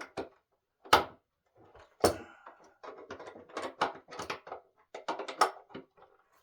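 Two sharp knocks, then a quick run of smaller clattering knocks, from solid-wood table parts and hardware being handled during assembly.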